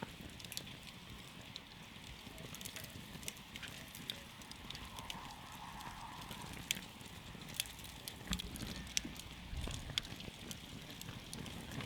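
Wood campfire crackling: irregular sharp pops and snaps, several a second at times, over the low steady rush of the burning flames.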